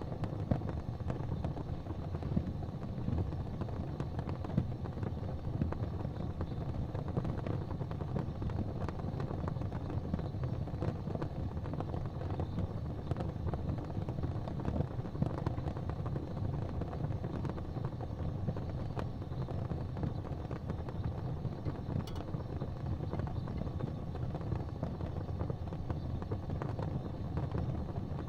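Wood fire burning in a fireplace: a steady low rumble with small irregular crackles and pops throughout.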